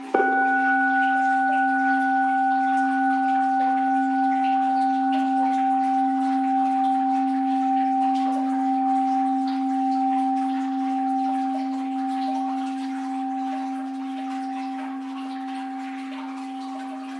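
An orin, a Japanese Buddhist bowl bell, is struck once at the very start and left to ring. A low hum with a couple of higher overtones wavers gently as it slowly fades over a faint wash of water.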